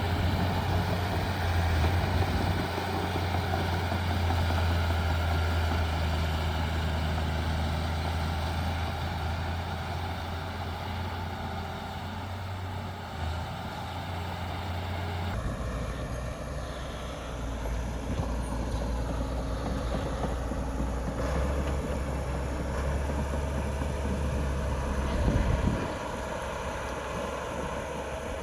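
Heavy diesel earthmoving machinery running steadily with a low, even engine hum. About halfway through the engine note changes abruptly to a different one, and shortly before the end the low hum drops away.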